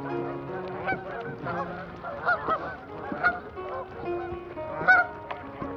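Geese honking, several separate calls, with the loudest about two, three and five seconds in.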